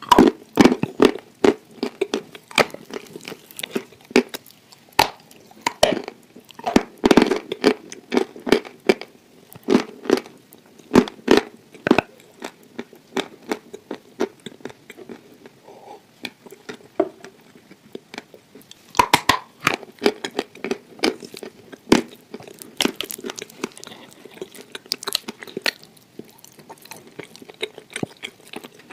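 A person chewing and crunching a hard, crumbly food close to a clip-on microphone: irregular crackling crunches with mouth sounds, thinning out in the middle and picking up again about two-thirds of the way through.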